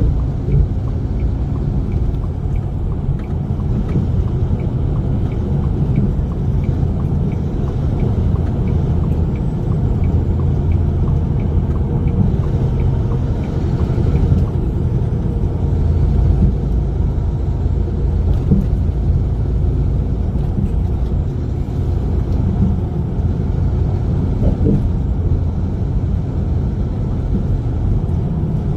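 Steady low rumble of a truck driving, with a faint, regular ticking through roughly the first half.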